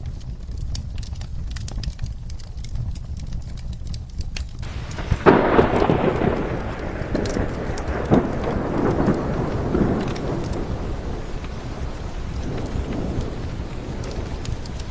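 Steady rain with scattered light ticks; about five seconds in a thunderclap breaks and rolls, fading away over the next several seconds.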